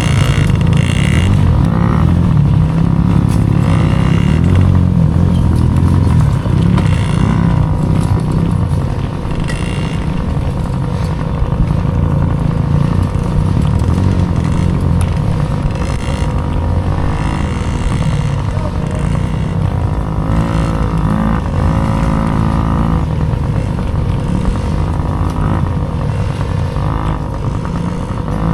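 Dirt bike engine revving up and down over and over while racing, over a loud low rumble.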